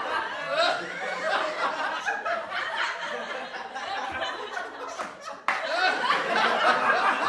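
A group of people laughing together, many voices overlapping. About five and a half seconds in, it cuts abruptly to another, louder round of laughter.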